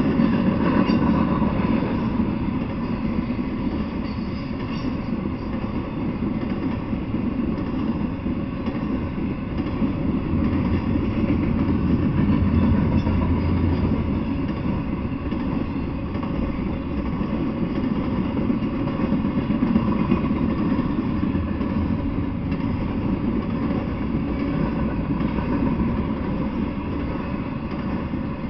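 Intermodal freight train rolling past: a steady noise of steel wheels on rails as flatcars carrying truck trailers and well cars carrying containers go by.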